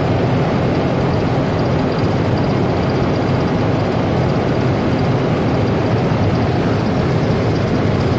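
Vehicle engine idling steadily, a constant drone with the air conditioning running so its system temperatures can be checked.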